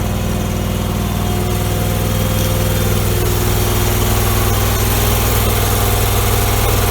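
Small tractor engine idling steadily, with an even low hum.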